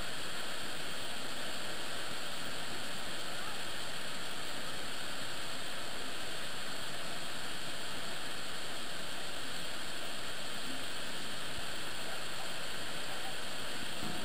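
Niagara Falls: the steady, unbroken rush of a huge volume of falling water.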